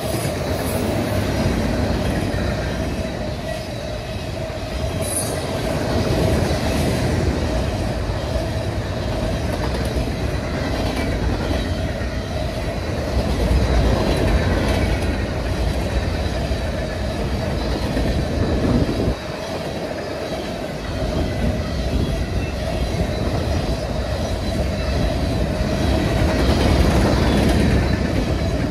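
Freight train cars (tank cars and open-top hoppers) rolling past close by: a loud, steady rumble and rattle of steel wheels on the rails, with a couple of brief high squeaks in the first few seconds.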